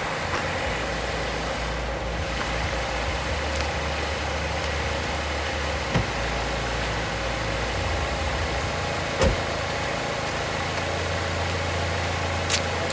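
2013 Chrysler 200's engine idling steadily, with two short knocks, one about six seconds in and one about nine seconds in.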